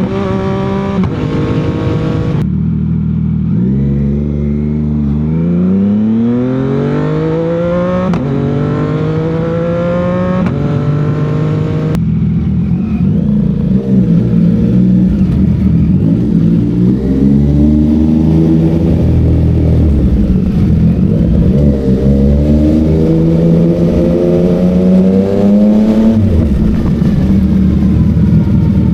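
CFMOTO 675 three-cylinder sport motorcycle engine and exhaust under way. The revs climb through a couple of gears, with the pitch dropping at each shift about two, eight and twelve seconds in. The engine then holds and swells at highway speed, with another climb and an upshift near the end.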